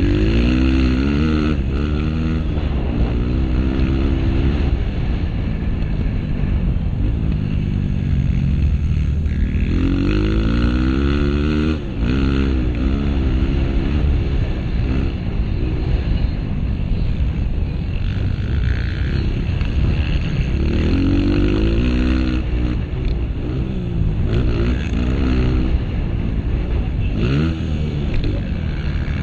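Honda CRF230F's single-cylinder four-stroke engine racing on a motocross track, its pitch climbing hard several times as the throttle is opened and dropping back as it eases off, over a steady low rumble.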